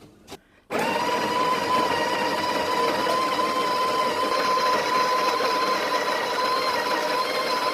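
Breville Barista Express's built-in conical burr grinder running steadily for about seven seconds, grinding beans into the portafilter, with a steady whine, then cutting off near the end. It is the first grind after the hopper was filled, so only a little ground coffee comes out.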